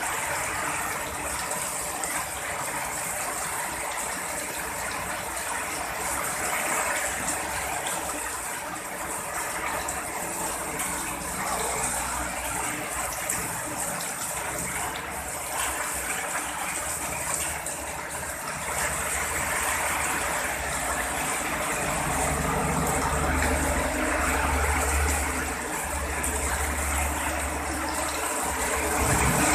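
Heavy rain pouring steadily. A low rumble of thunder comes in about two-thirds of the way through and stops shortly before the end.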